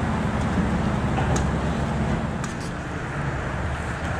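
Harley-Davidson Ultra Limited's V-twin engine running steadily with a low, even rumble.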